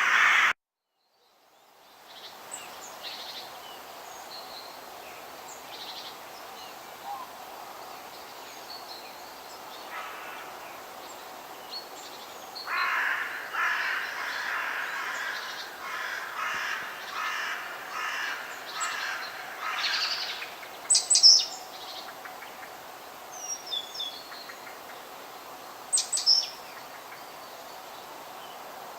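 Forest bird ambience. A crow caws at the very start, then the sound drops out to silence for about a second and a half. A steady background hiss follows, with scattered songbird chirps, a run of repeated calls in the middle, and two sharp, loud chirps later on.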